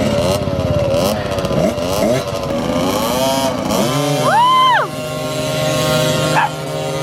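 Dirt bike engines running with a wavering pitch as the throttle varies. About four and a half seconds in, one bike revs sharply up and back down, then settles to a steady lower note.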